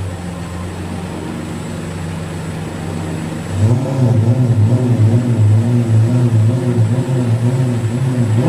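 Engine drone: steady at first, then louder with a wavering, pulsing note from about three and a half seconds in.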